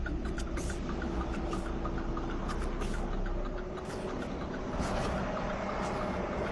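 Semi-truck's diesel engine running steadily at low speed while the rig is backed slowly.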